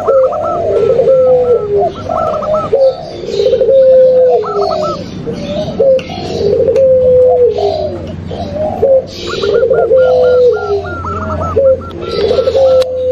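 Several doves cooing at once in overlapping, repeated phrases, with quick higher notes above the low coos: a lure mix of zebra dove (perkutut), spotted dove (derkuku) and puter pelung calls. A low steady hum runs underneath in the second half.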